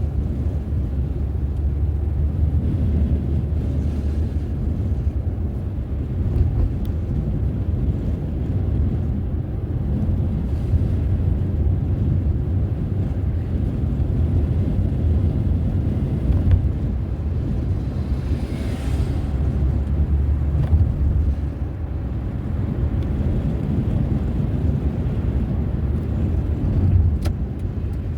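Car driving on the road: a steady low rumble of engine and tyre noise, with a brief rushing sound about two-thirds of the way through.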